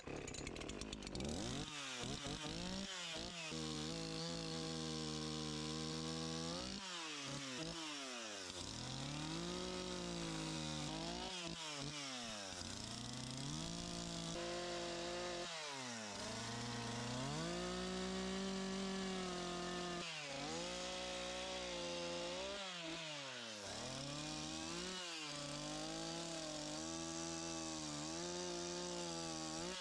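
Echo CS-501P two-stroke chainsaw with a 16-inch narrow carving bar, carving into a log. The throttle is revved up and down over and over, so the engine pitch climbs and drops every second or few.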